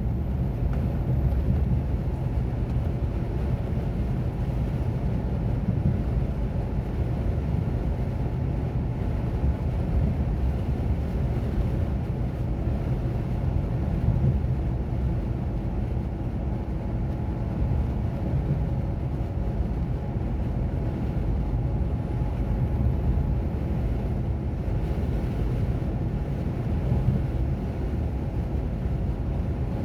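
Container truck's diesel engine running steadily while driving, with tyre and road noise: a steady low drone.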